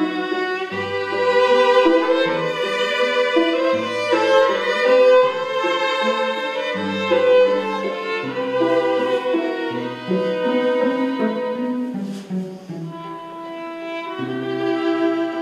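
Bowed string music: a violin plays a slow melody over lower sustained bowed notes. The music softens briefly near the end before swelling again.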